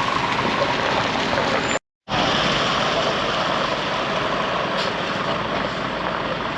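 Heavy lorry engines running, a steady wash of engine noise. The sound drops out for a moment about two seconds in, at a cut in the recording.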